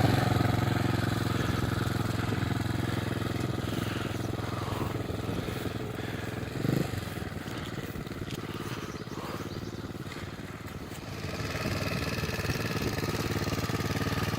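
Irbis TTR 110 pit bike's small single-cylinder four-stroke engine running at low speed, slowly fading as it moves off, with a brief louder blip about halfway, then growing louder again near the end.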